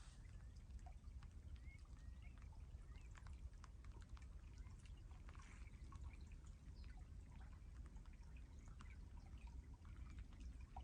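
Faint outdoor marsh ambience: a steady low rumble of wind, scattered faint ticks and drips, and a few short, faint bird chirps.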